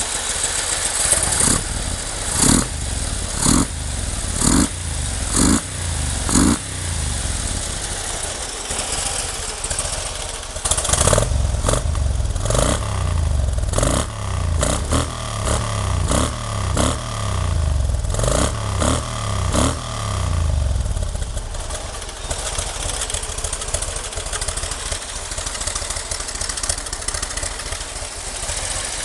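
2009 Harley-Davidson Street Glide's Twin Cam 96 V-twin, running with the throttle blipped in quick revs. First comes a run of short revs about once a second, then a steady idle. About a third of the way in, a longer stretch of heavier rumble with many quick revs begins, and it settles back to idle for the last third.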